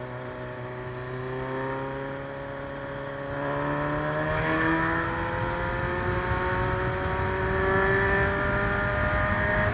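Vehicle engine running, its pitch climbing slowly and steadily as it gathers speed, getting louder about three seconds in.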